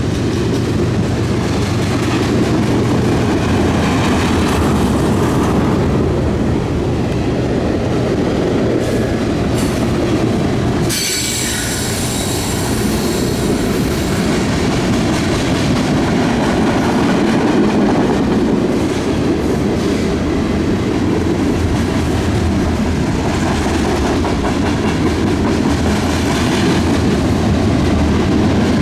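Freight cars of a CN freight train rolling past with a steady rumble and clatter of wheels on rails. About eleven seconds in, a high metallic wheel squeal rings out for a few seconds.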